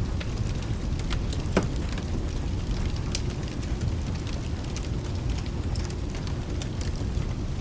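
Steady rain with a low rumble underneath, mixed with the scattered sharp crackles of a wood fire; one crackle, about a second and a half in, is louder than the rest.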